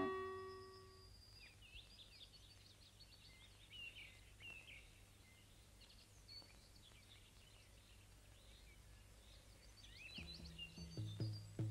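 Faint birdsong: many short chirps and twitters over a light background hiss, as a keyboard tune dies away in the first second. Near the end, low thuds and notes start up.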